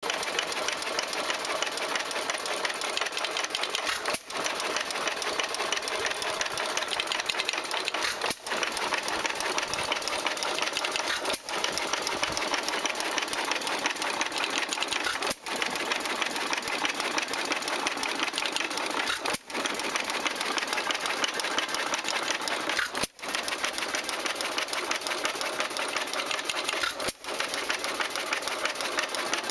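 Small antique stationary gas engine running with a fast, steady mechanical clatter. The sound briefly drops out about every four seconds.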